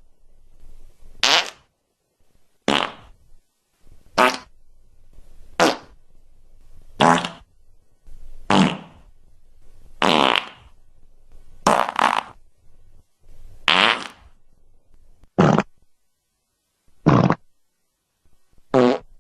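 Fart sound effects: about a dozen short, separate farts, one every second and a half or so. Some are buzzy and pitched, others noisier.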